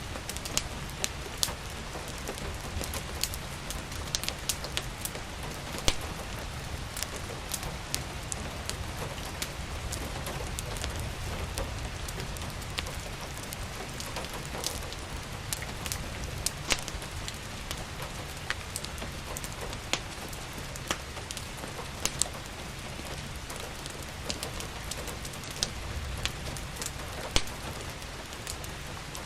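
Steady rain with a fireplace crackling: a continuous hiss of rainfall over a low rumble, broken by irregular sharp pops and snaps.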